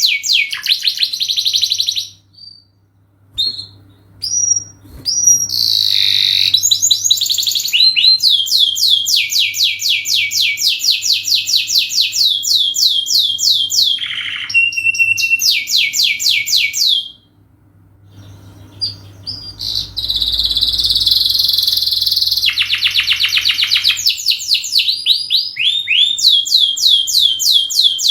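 Domestic canary singing long, fast trills of rapidly repeated high notes, each phrase a quick run of sweeping notes, with two short pauses between song bursts. A faint low hum sits underneath.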